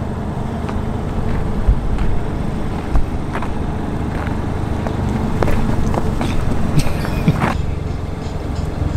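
Car engine running steadily, with a few sharp clicks and a couple of short low thumps.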